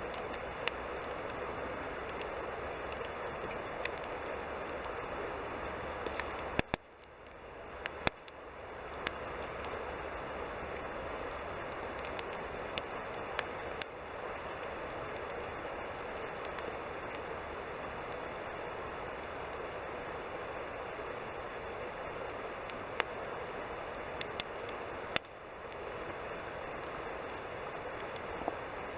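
Wood campfire burning: a steady hiss with scattered sharp crackles and pops of the burning wood, the loudest about seven and eight seconds in. The hiss dips away briefly twice and comes back.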